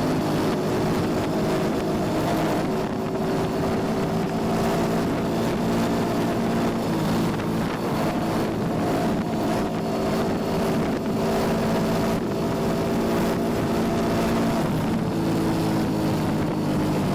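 Yamaha Junoon motorcycle engine running at a steady cruise, its pitch holding nearly even, with wind noise on the microphone.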